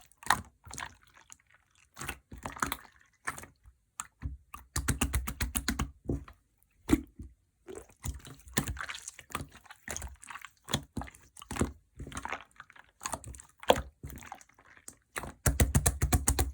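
Clear slime being squished and pressed by hand, making wet clicking and popping sounds, with two runs of quick crackling pops about five seconds in and again near the end.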